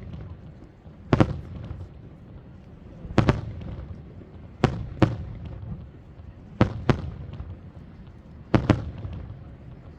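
Aerial fireworks shells bursting. There is a run of sharp bangs every one to two seconds, several coming in quick pairs, and each trails off in a low rumbling echo.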